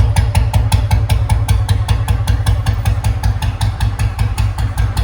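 Royal Enfield Bullet's single-cylinder engine idling with its steady thump, about seven beats a second.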